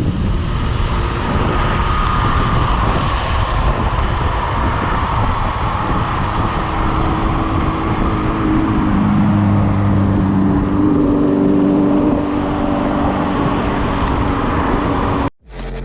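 Wind rushing over the microphone and road noise while riding an electric scooter at speed, with a high whine slowly falling in pitch in the first few seconds. A vehicle's engine hum rises and fades in the middle, and near the end the sound cuts off abruptly into music.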